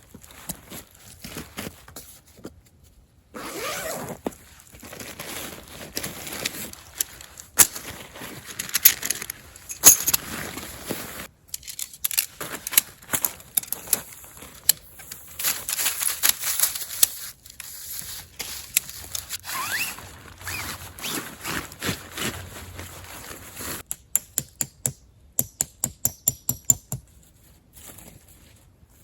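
Tent fabric of a TOMOUNT bivy tent being handled during setup: irregular rustling, crinkling and scraping. Near the end comes a quick run of sharp ticks, about four a second.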